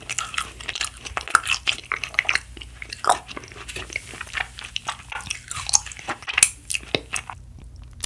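Close-up chewing of a mouthful of frozen ice macaron, a dense run of small crackles and clicks that thins out near the end.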